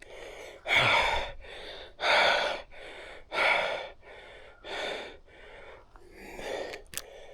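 A man breathing hard, out of breath after a climb: loud, rasping exhalations about every second and a half with quieter inhalations between them. A short click near the end.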